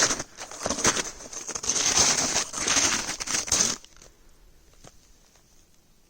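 Footsteps crunching through snow, about one step a second, stopping about four seconds in.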